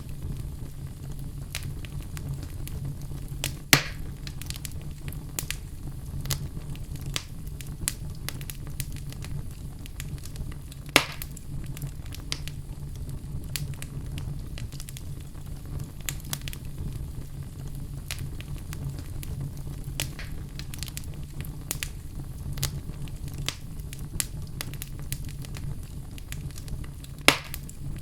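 Crackling fire: a steady low rumble under frequent small snaps, with three louder pops, about four seconds in, about eleven seconds in and near the end.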